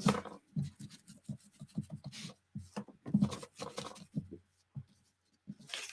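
A run of short, irregular rubbing strokes of an ink pad or ink-blending tool over the edges of a small piece of paper, inking its back.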